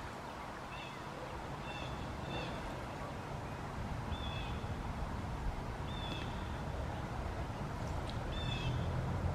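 A bird giving about six short, high calls, a second or two apart, over a steady outdoor hiss. A low hum comes in near the end.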